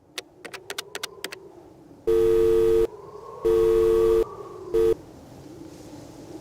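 Telephone-style sound effect: a quick series of about eight sharp clicks, like buttons being pressed, then a two-note phone tone beeping twice for under a second each and once briefly.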